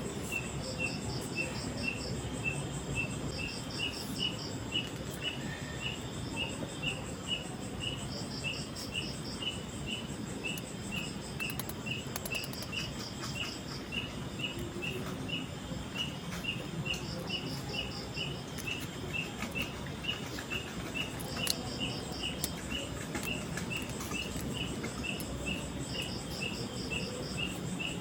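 Forest ambience of calling insects: one high chirp repeating steadily about two or three times a second, and a faster pulsed trill about a second long that comes back every four or five seconds, over a steady low hiss.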